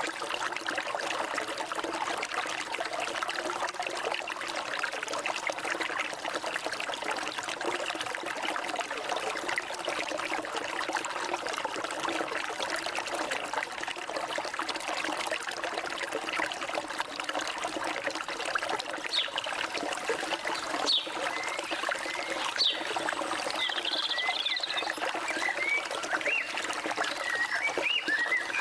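Forest stream water trickling and burbling steadily. About two-thirds of the way through, birds begin chirping in short quick notes that grow more frequent toward the end.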